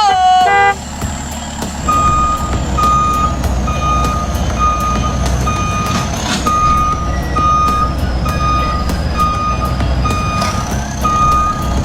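Remote-control toy construction vehicle's sound effects: a reversing beep repeating about every three-quarters of a second over a steady engine rumble. A thin high whine slowly falls in pitch and jumps back up near the end. A short gliding tone is heard at the very start.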